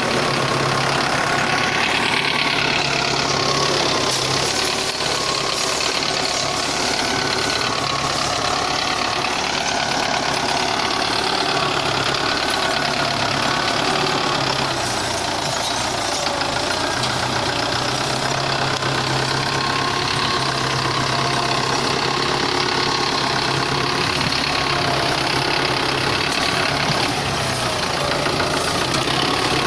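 Diesel engine of a Russian-built 510 tractor running steadily.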